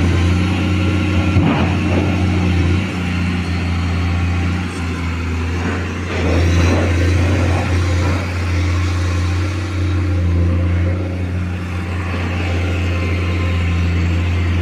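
Excavator diesel engine running steadily under load, with brief scrapes about a second and a half in and again around six to seven seconds in as the machine works.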